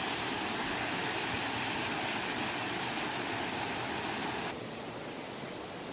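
Steady rush of flowing creek water. About four and a half seconds in it drops suddenly to a quieter, duller rush.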